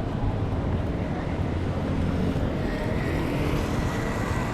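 Steady low rumble of a passing vehicle, with a faint thin high whine coming in about three seconds in.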